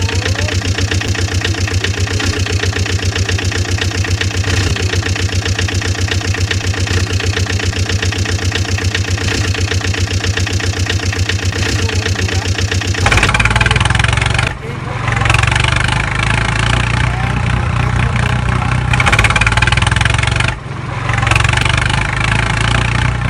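Tractor diesel engine running with an even, fast chugging beat. About thirteen seconds in it changes to a louder, heavier engine sound, broken by two brief dropouts.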